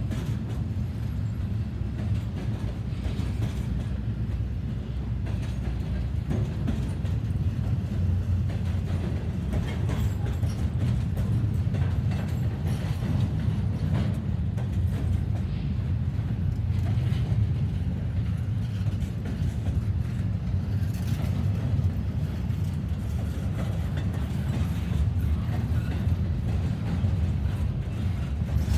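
CSX double-stack intermodal freight train rolling past: a steady low rumble of steel wheels on rail from the loaded container well cars, with light scattered clicks.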